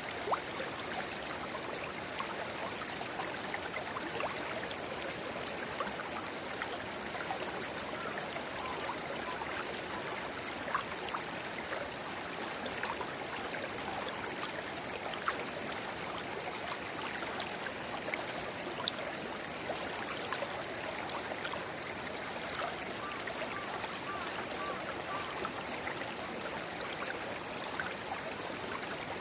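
A shallow river babbling steadily, with a small spring-fed rivulet trickling and gurgling into it in many small splashes and bubbly blips.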